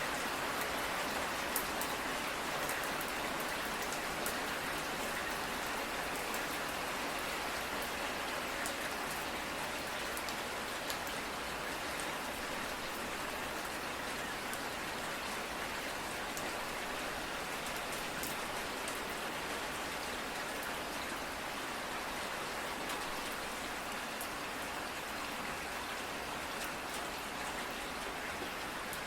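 Steady rain falling, an even hiss with individual drops ticking on a surface.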